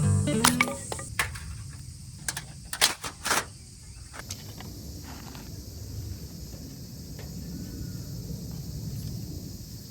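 Steady high insect chorus from about four seconds on, over a low outdoor rumble, after a few sharp clicks and knocks in the first seconds.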